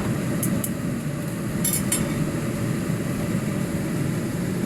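Steady low rumble of kitchen background noise, with a few light clinks of a utensil against a pan about half a second in and again near two seconds in, as a thickened sauce is stirred.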